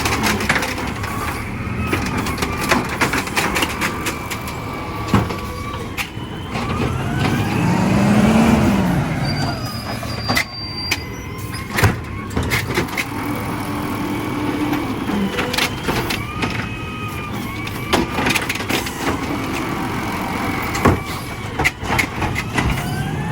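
Garbage truck's diesel engine running, revving up and back down about eight seconds in, with repeated sharp metal clanks and knocks throughout.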